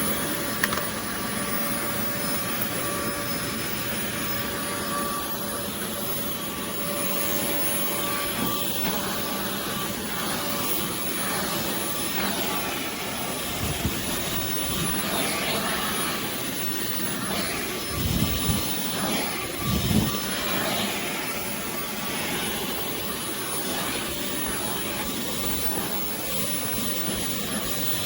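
Oreck Commercial XL Pro 5 compact canister vacuum running steadily with a whine, with a couple of low thumps about two-thirds of the way through.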